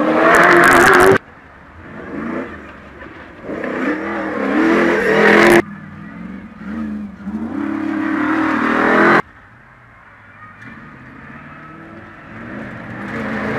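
Off-road competition vehicles' engines revving hard, the pitch rising and falling with gear changes and throttle as they race along a dirt track. The loud engine sound breaks off abruptly three times: about a second in, near the middle, and about two-thirds through. A quieter, steady engine sound follows each break.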